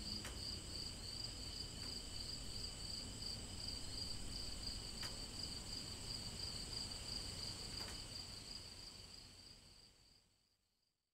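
Crickets trilling steadily at dusk, faint, with a few soft clicks, fading out near the end.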